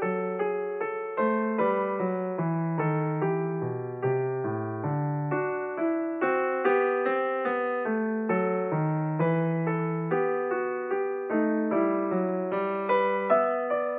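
Background piano music: a gentle melody of single notes and chords played at an even pace, each note struck and fading.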